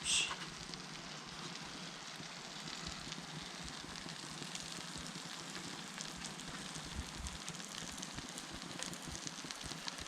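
Battered food sizzling steadily in hot butter in a frying pan, with small crackles and pops throughout.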